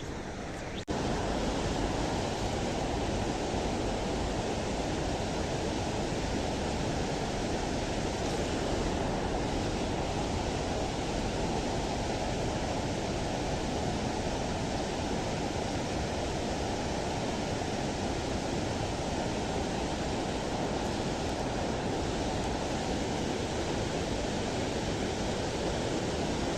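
Steady rushing of a fast river, an even roar of water with no distinct splashes; it comes in abruptly about a second in and holds level.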